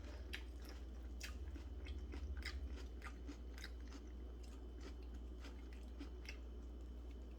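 A person chewing a mouthful of chicken sandwich, faint crisp clicks of the chewing coming every fraction of a second and stopping about six seconds in.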